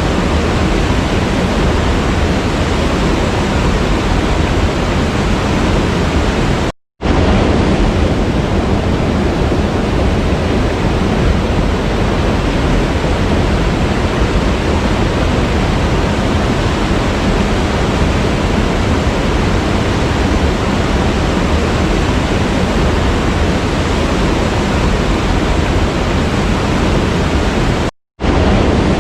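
Waterfall, a loud steady rush of falling water. It breaks off twice into a moment of silence, about seven seconds in and again near the end.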